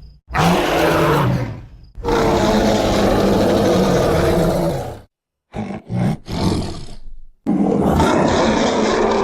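Creature sound effects for a giant short-faced bear (Arctodus), a designed bear roar. There is a short roar, then a long roar of about three seconds, then three short calls and another roar starting near the end.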